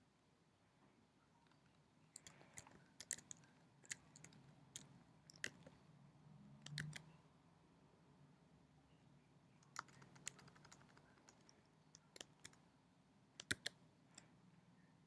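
Computer keyboard keystrokes, faint and sparse, in short irregular clusters with pauses between.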